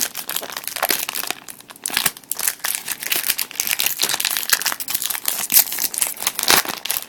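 Pokémon booster pack wrapper crinkling continuously as it is handled and torn open by hand.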